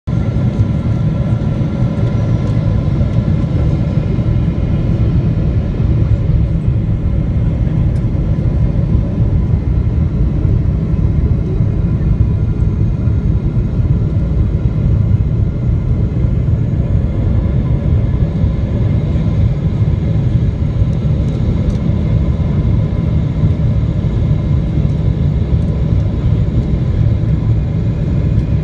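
Boeing 777-300ER airliner in flight: a steady, loud rumble of engine and air noise with faint steady whine tones above it from its GE90 turbofans.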